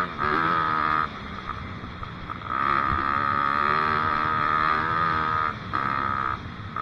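Dirt bike engine running under throttle while riding, opening up and backing off: it drops off about a second in, picks up again past two seconds, and falls back briefly twice near the end.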